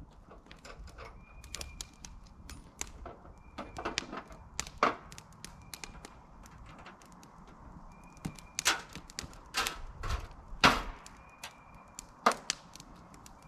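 Irregular knocks, clunks and clatter of camp gear being handled and set down, with the loudest thunks in the second half.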